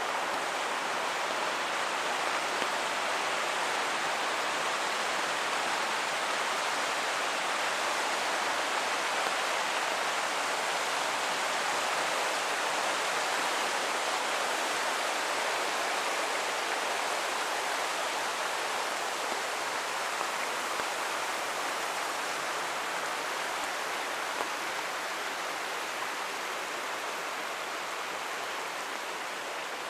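A forest creek rushing steadily, a constant even hiss of running water that grows slightly fainter near the end.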